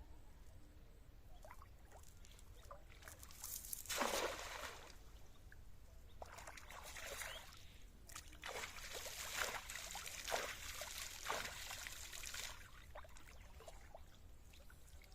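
Water splashing and trickling in several bursts, the loudest about four seconds in and a longer one from about eight to twelve seconds, with quieter spells between.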